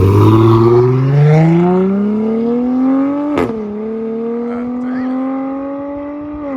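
Dodge Charger GT's straight-piped 3.6-litre V6, with Flowmaster Super 10 mufflers, at full throttle in a 0-60 run. The revs climb steadily, drop sharply at an upshift a little past three seconds in, then climb slowly again, with another upshift near the end.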